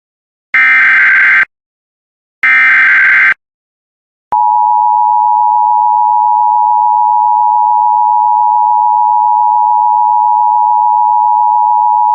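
Emergency Alert System alert opening: two one-second bursts of screeching digital data tones (the SAME header), then after a short gap the steady two-tone EAS attention signal, held for about eight seconds and cutting off abruptly. This signals that a tornado warning follows.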